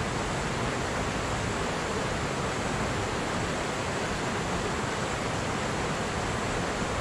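Steady rushing of a fast-flowing shallow river.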